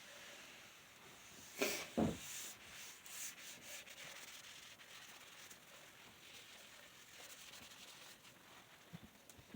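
Sandpaper rubbing over a wooden cutting board in the final sanding, a faint scratchy sound, with two loud knocks about one and a half to two seconds in.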